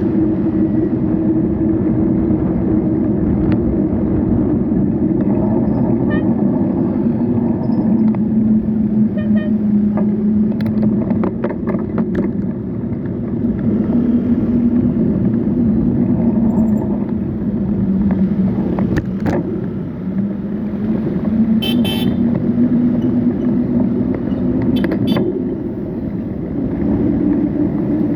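Road traffic: vehicle engines running steadily, with an engine hum that rises and falls in pitch. A car horn toots briefly about three-quarters of the way through.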